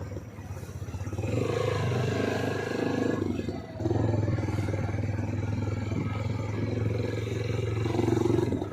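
A motor vehicle's engine running at steady revs, with a brief drop-off about three and a half seconds in before it picks up again.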